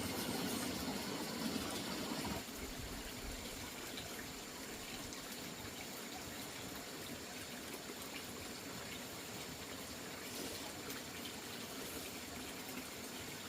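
Water running steadily. A louder, deeper rush in the first two seconds or so stops sharply, leaving the steady flow.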